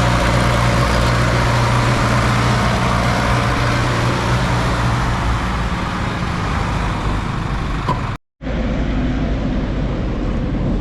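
Tractor diesel engine running loud and steady, with a deep engine hum that weakens about halfway through. The sound cuts out abruptly for a moment about eight seconds in, then engine and road noise resume.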